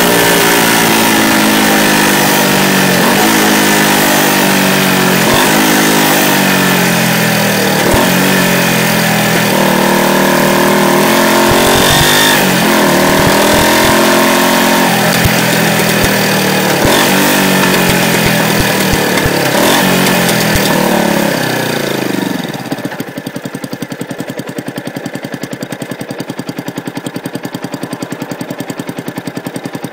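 Yamaha YZF-R125's single-cylinder 125 cc four-stroke engine heard from under the bike, its pitch rising and falling over and over with throttle and gear changes. After about twenty seconds it drops back to a steady idle.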